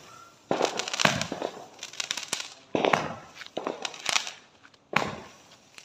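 Multi-shot firework launching shots into the air: about five sharp bangs at irregular intervals, each trailing off in crackle.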